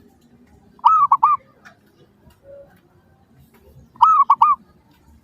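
Zebra dove (perkutut) cooing: two short song phrases about three seconds apart, each a quick run of about four arched, bubbling coo notes.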